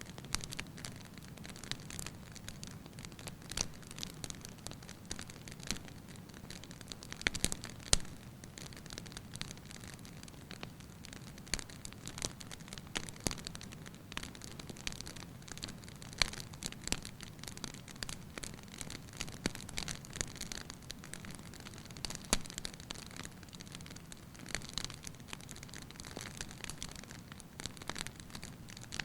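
Firewood burning in a fireplace: a low steady rush of flame with frequent light, irregular crackles and pops, a few louder snaps about seven to eight seconds in.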